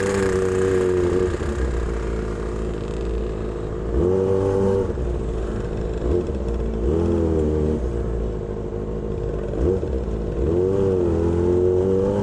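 Kawasaki Ninja ZX-25R's 250 cc inline-four engine through an SC Project aftermarket exhaust, running at high revs while riding. It holds a steady high-pitched note, and the revs dip and swing back up about four times as the throttle rolls off and on.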